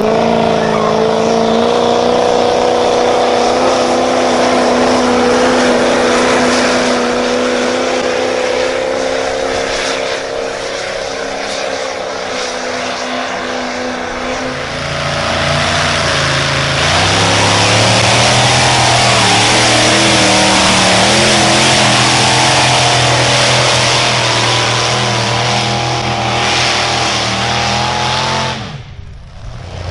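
Engine of a pulling truck or tractor under load, revved up and held at high, steady revs. About halfway the pitch drops and wavers, then the engine runs louder at full throttle until the sound cuts out abruptly near the end.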